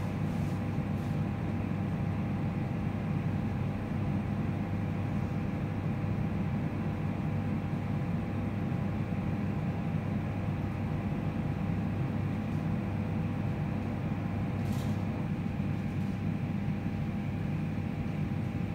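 London Overground electric train standing at the platform with a low, steady hum and a couple of faint steady whines above it.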